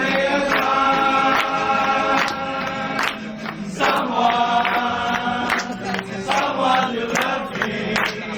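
A group of voices singing long held notes together, with sharp percussive strokes beating along throughout.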